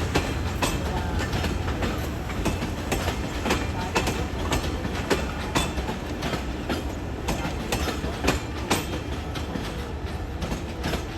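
A train rolling past, its wheels clacking repeatedly over rail joints and points above a steady low rumble.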